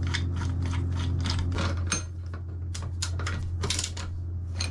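A quick run of small sharp clicks and clatters, about four or five a second, over a steady low hum.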